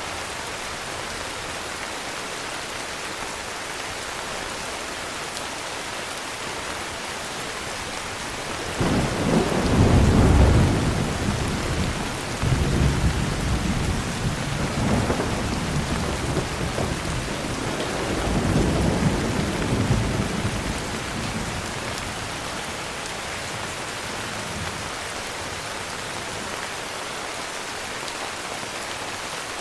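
Steady heavy rain hissing, with a long roll of thunder that breaks in sharply about a third of the way through. The thunder rumbles in several swells for over ten seconds before fading back under the rain.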